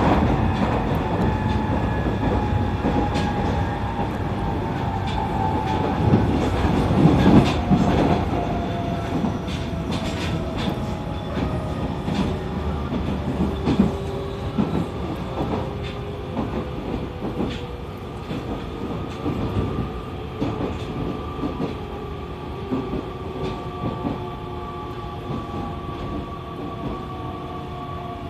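E501 series electric train braking into a station: the motors' whine slides slowly down in pitch over the rumble and clicks of the wheels on the rails, the whole sound easing off as the train slows.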